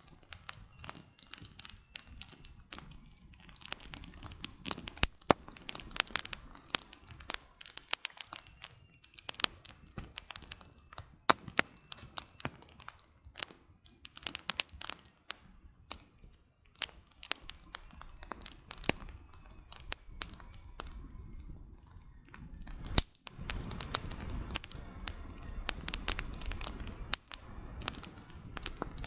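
Campfire of burning firewood crackling, with dense irregular pops and snaps. Partway through, a low rushing sound of the flames joins the crackle and grows louder.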